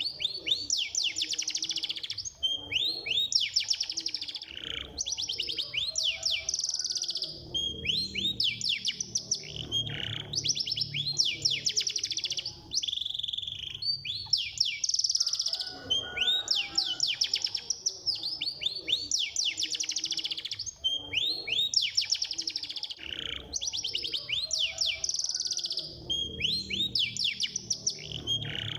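Domestic canary singing a fast, continuous song: dense rapid trills and quick rising sweeps, phrase after phrase with only brief breaks. This is the tight, fast 'speed rapat' style of canary song used as a training recording to set caged canaries singing.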